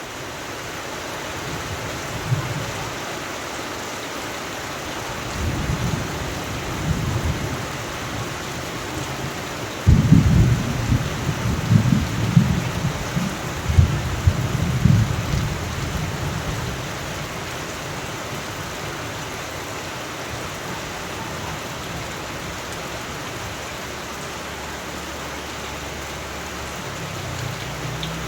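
Thunderstorm: steady rain hiss with rolls of thunder. A faint rumble comes early, a louder one around six seconds in, and a sharp clap about ten seconds in rumbles on for several seconds.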